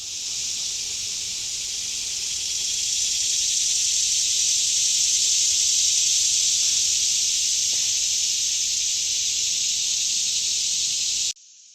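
Chorus of many cicadas singing together: a loud, steady high-pitched hiss that builds over the first few seconds and then cuts off suddenly near the end.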